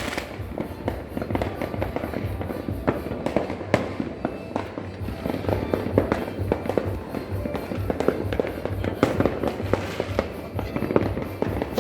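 Many fireworks and firecrackers going off at once, a dense, unbroken run of pops and bangs, over background music with a steady low beat.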